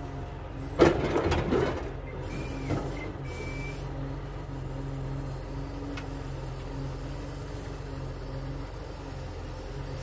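Truck engine idling steadily. About a second in there is a loud bang followed by a brief clatter, then a lighter knock and two short high beeps.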